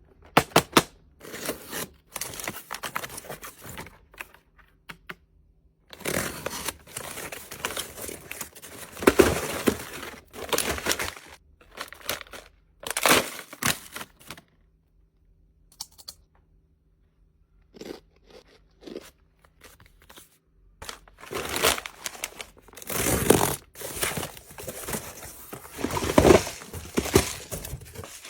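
Plastic snack packaging crinkling and tearing as it is handled, in irregular bouts with sharp clicks and short pauses.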